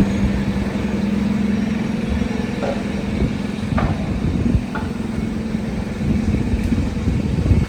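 City street traffic: motor vehicle engines running, with a steady low hum and rumble throughout.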